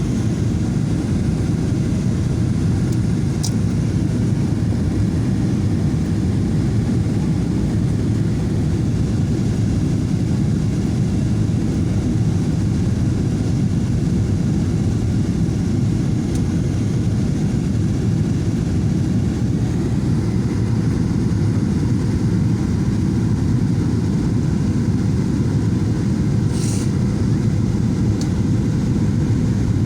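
Steady low rumble inside a Boeing 737-800 passenger cabin in flight, the noise of its CFM56 jet engines and rushing air. A faint click comes a few seconds in and a brief hiss near the end.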